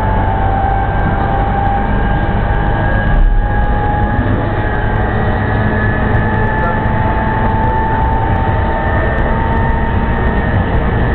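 Commuter train running between stations, heard from inside the car: a steady rumble of wheels on rail, with a thin whine that rises slowly in pitch. There is a brief louder thump about three seconds in.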